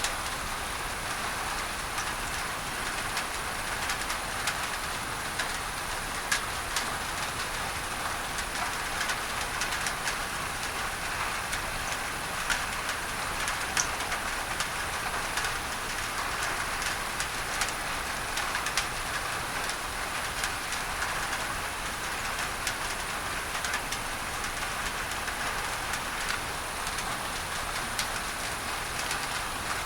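Steady rain on a tin roof, full of sharp little drop ticks, mixed with an even hiss of masking noise.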